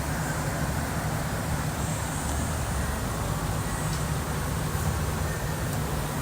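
Steady low motor rumble under a rushing noise, with no breaks or changes, like a boat's motor running with wind on the microphone.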